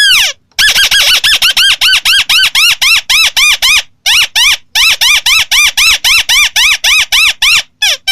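White-browed crake (Amaurornis cinerea) calling: a loud, fast series of short rising-and-falling notes, several a second. The series breaks briefly about halfway and ends with a few falling notes.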